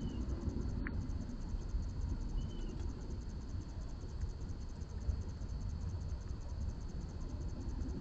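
Outdoor ambience: insects, likely crickets, keep up a steady high pulsing trill over a low rumble. Two faint short bird chirps come through, one near the start and one about two and a half seconds in.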